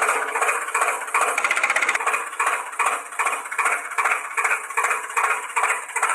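Toy vehicle's engine sound: a thin, pulsing engine-like noise at about two to three pulses a second over a steady hum, with no low end.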